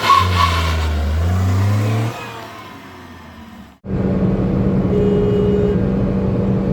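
Petrol hatchback engine accelerating, its pitch rising for about two seconds before it drops away and fades. After an abrupt cut about four seconds in, a steady engine and road drone at constant pitch.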